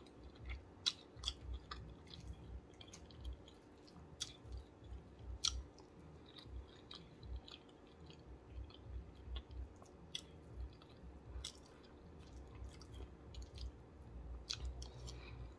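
Faint chewing and mouth sounds of a person eating, with irregular small clicks and smacks.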